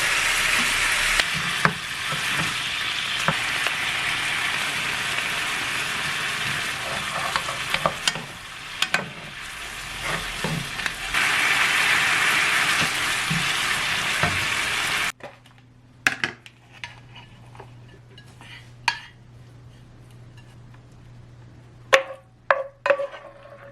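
Food frying and sizzling in a pan while a utensil stirs it, with scattered scraping clicks against the pan. About fifteen seconds in the sizzling cuts off abruptly, leaving a low steady hum and a few sharp clinks of utensils.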